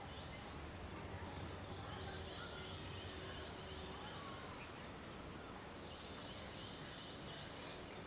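Faint outdoor ambience with a steady low hum, and birds calling: two runs of rapid, high repeated notes, one about a second and a half in and one about six seconds in, with a few soft whistles between.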